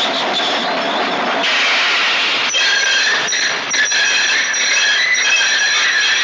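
A train running on rails with a steady noisy rumble. High squealing tones, typical of wheels squealing on the track, join in about two and a half seconds in.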